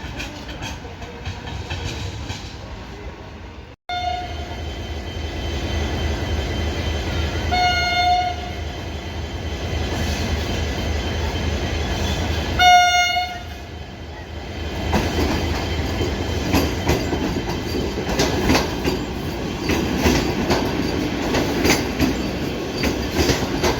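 An Indian Railways train arriving: two short horn blasts about five seconds apart over a steady low hum, then its wheels clacking rapidly over the rail joints.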